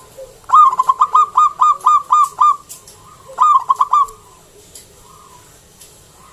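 Zebra dove (perkutut) singing its fast staccato cooing song: a quick run of about nine notes, a short pause, then a burst of four more.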